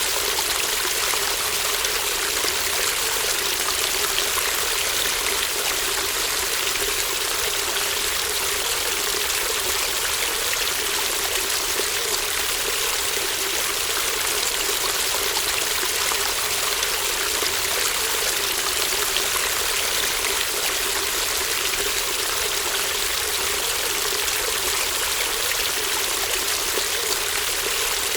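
A small stream babbling steadily, a continuous even rush of running water with no breaks or changes.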